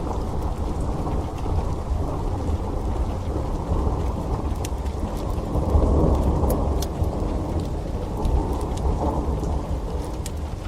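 Steady rain with a low rolling thunder rumble that swells about six seconds in, over the scattered sharp pops of a crackling wood fire.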